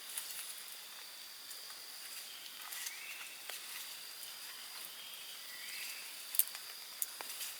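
Forest insects drone steadily on one high note. A short rising bird call comes twice, about three seconds and six seconds in, and a few sharp clicks sound near the end.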